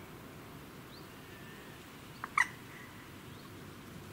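A single short, sharp bird call a little past two seconds in, a quick note then a louder one, over low steady background noise with a few faint chirps.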